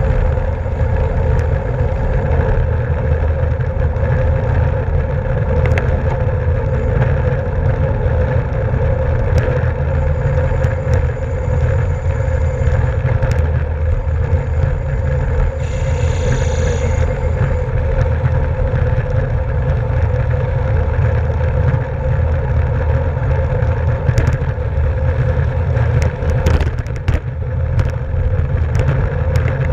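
Wind rushing over the microphone of a camera on a moving racing bicycle, a heavy steady rumble mixed with tyre and road noise and a few faint clicks.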